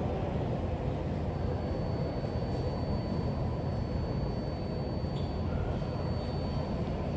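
New York City Subway train running in the station, a steady low rumble with no distinct knocks or squeals.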